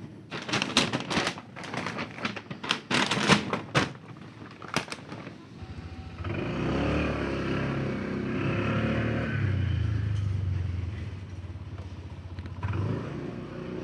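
A run of sharp knocks and scrapes for the first few seconds, then, about five seconds in, a vehicle engine starts up and runs steadily.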